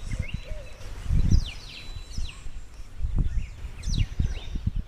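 Small birds chirping repeatedly in short falling calls, with low rumbling gusts of wind on the microphone a few times.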